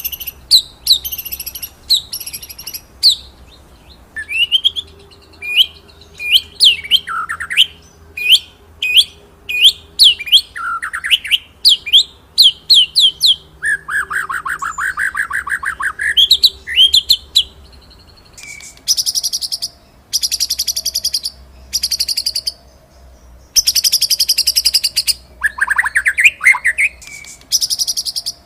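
White-rumped shama (murai batu) singing a varied song: sharp whistled notes that sweep downward, then from about two-thirds of the way through, long, rapid buzzy trills.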